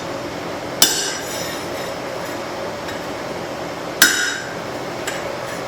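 Two hammer blows about three seconds apart, each a sharp strike with a short metallic ring, driving a hole punch into hot spring steel on the anvil, over a steady background hiss.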